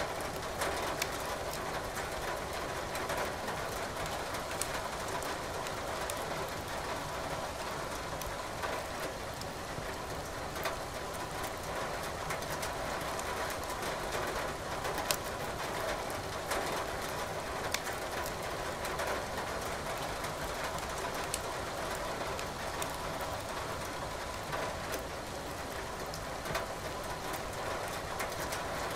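Steady rain mixed with the crackling of burning firewood in a fireplace, with sharp pops scattered throughout.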